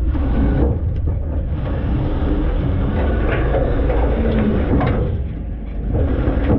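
Front-load garbage truck running, heard from inside its hopper: a steady low engine rumble with a wavering whine and scattered metal clanks and knocks.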